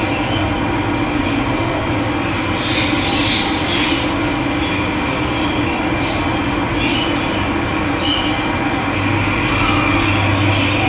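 Steady rush of running water with brief high bird chirps breaking through now and then.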